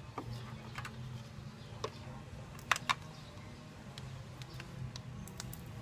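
A few light clicks and taps, scattered and irregular, from handling a multimeter and its test probes at the refrigerator compressor's terminals, over a low steady hum.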